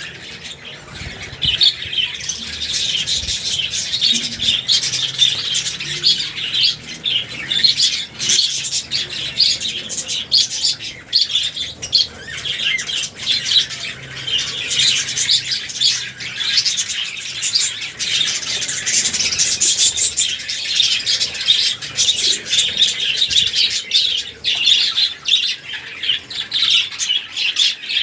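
Budgerigars chattering and chirping non-stop, a dense warbling twitter of several birds at once with sharper chirps mixed in.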